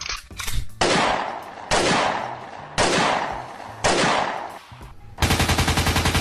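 Four loud single gunshot-like bangs about a second apart, each trailing off. Near the end comes a rapid burst of automatic gunfire lasting about a second and a half.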